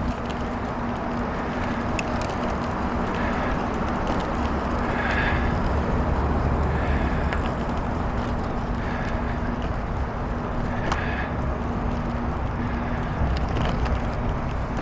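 Steady rolling and rushing noise of a bicycle on gravel tyres being ridden along a trail, with a low rumble, a faint steady hum and scattered small clicks and rattles.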